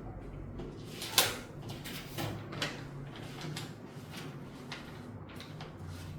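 A sharp knock about a second in, then a few fainter clicks and scrapes, over a faint steady low hum.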